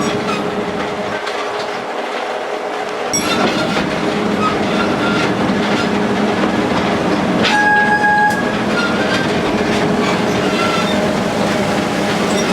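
Narrow-gauge forest railway train running along the track, wheels clattering over a steady engine hum, growing louder about three seconds in. About halfway through there is one short horn note.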